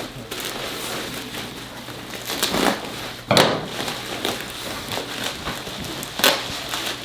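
Rustling and crackling of packing material and styrofoam as a box of marble bonsai pots is unpacked, with a couple of sharper knocks, one about three seconds in and one near the end.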